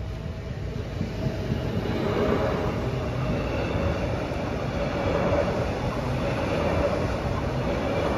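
Stadler FLIRT electric multiple unit passing close by, a steady rumble of wheels on the rails that builds over the first two seconds and then holds.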